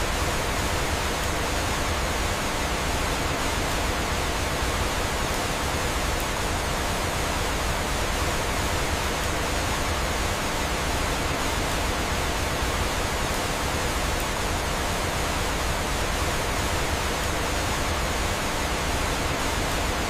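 Steady, unbroken rush of flowing water, as from a waterfall.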